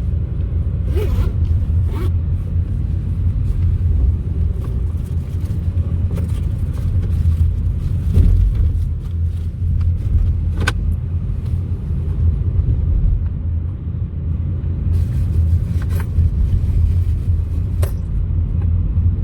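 Steady low road and engine rumble heard from inside a moving car, with a few brief knocks or clicks scattered through it.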